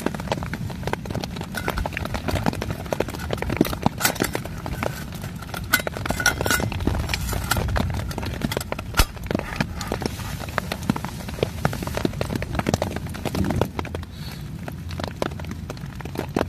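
Rain pattering on a canvas tent, with heavy drops tapping irregularly over a steady low rumble. Light metal clinks come between about four and seven seconds in, as a tea light in its tin is set into a small perforated metal stove box.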